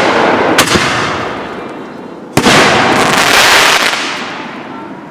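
Fireworks going off: two sharp bangs, about half a second in and about two and a half seconds in, each followed by a long hissing tail that slowly fades.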